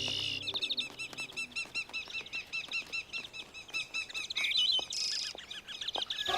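A flock of small birds chirping in quick, repeated, high chirps, with wings flapping.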